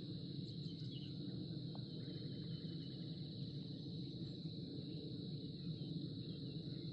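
Outdoor ambience: a steady, high-pitched insect drone with faint bird chirps over a low background rumble.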